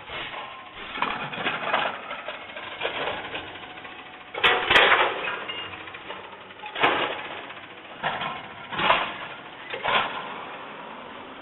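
Garbage truck at work: a series of bangs and clanks, about eight in ten seconds, the loudest pair about halfway through, over the sound of the running truck.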